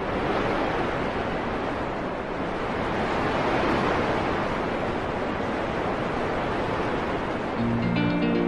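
A steady rushing noise, like surf or wind, with music coming in near the end.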